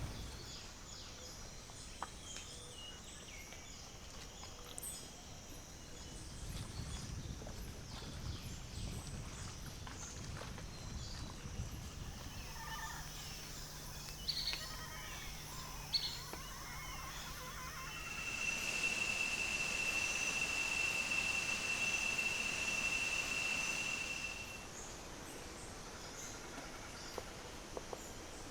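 Wild birds calling with scattered short chirps and whistles over outdoor ambience. Past the middle, a steady high-pitched buzz holds for several seconds.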